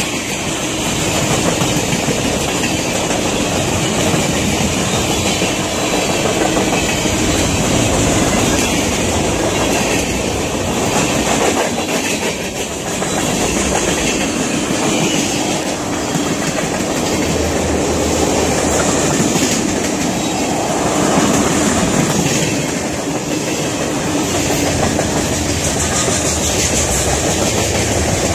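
Freight train of tank cars and covered hopper cars rolling past: a steady rumble of steel wheels on rail, with wheels clicking over the rail joints.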